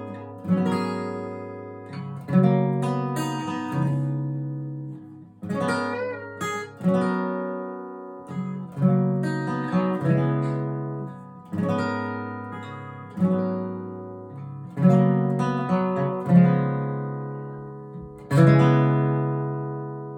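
Acoustic guitar playing an instrumental passage, chords struck about every one to two seconds and left to ring, ending on a final chord that rings out near the end.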